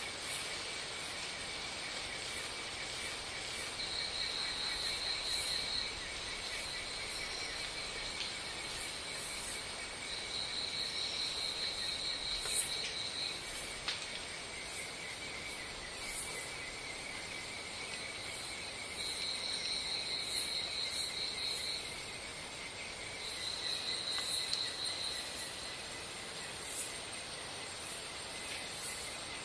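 Insects chirring: steady high-pitched trilling, with louder buzzes of a second or two that come and go every several seconds.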